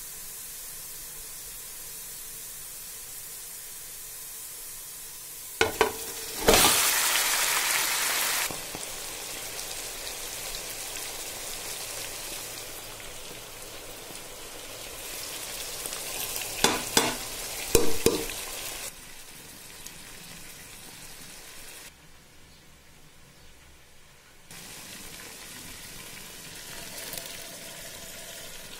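Food frying in hot oil in a pot, a steady sizzle. About six seconds in and again about seventeen seconds in, a few sharp knocks are followed by a louder burst of sizzling.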